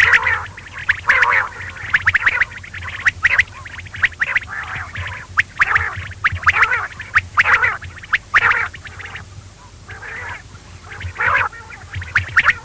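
Quail calling over and over in quick clusters of short notes, with a brief lull about two-thirds of the way through, over a steady low hum.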